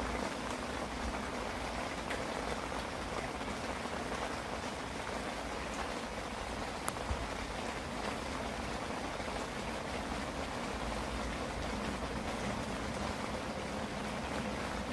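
Steady rain falling, with one sharp click about seven seconds in.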